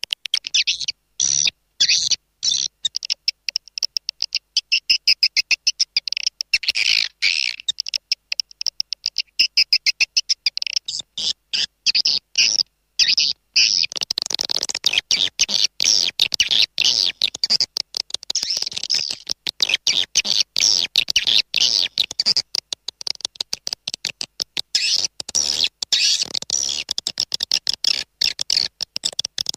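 Recorded swiftlet lure call: edible-nest swiftlets twittering in rapid, high-pitched chirps, dense and continuous, with the chorus thickening from about halfway through.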